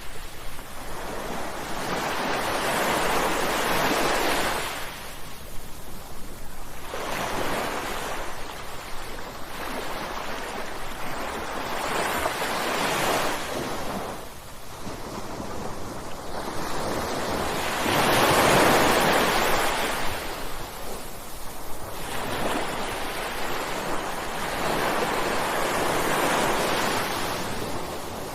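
Ocean surf: waves breaking one after another, each a surge of rushing water noise that swells and falls away every few seconds, about five in all, the loudest about two-thirds of the way through.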